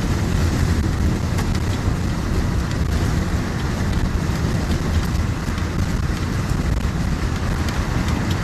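Steady wind rush and road noise inside a moving tow truck's cab, coming through a driver's window stuck open because its worn-out power window switch won't work.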